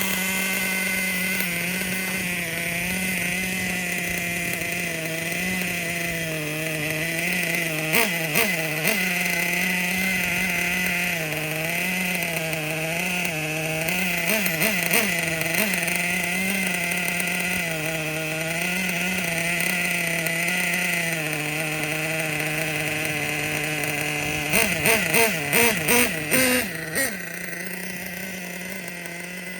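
Ofna Titan monster truck's .25 nitro engine idling steadily, with a slight waver in pitch. It gives short throttle blips about eight seconds in and again about halfway, then a quick string of revs near the end.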